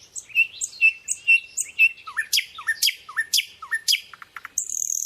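Birdsong: a string of short high chirps, two or three a second, giving way about two seconds in to a different call of quick sweeping notes, then a brief high buzzing note that cuts off near the end.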